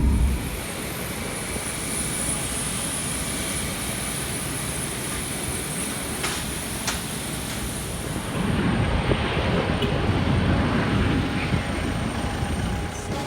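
Boeing 737-800 jet engines running with a steady roar, growing louder about eight or nine seconds in as a faint high whine drops away.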